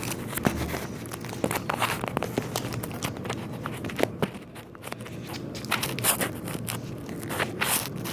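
Birds scuffling and fighting at a window, making an irregular run of sharp clicks, taps and scrapes.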